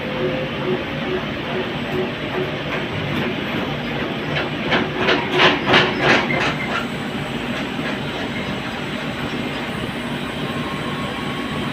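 Fagor washing machine drum spinning at the start of its spin cycle, its motor driven by a variable-frequency drive at about 19 Hz, with a steady running noise. A run of knocks, about three a second, lasts a couple of seconds in the middle, and a faint whine rises slightly near the end.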